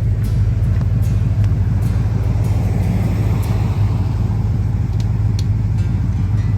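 Ford 460 V8 of a 1986 F250 running steadily through its new exhaust and mufflers, a strong, even low-pitched drone.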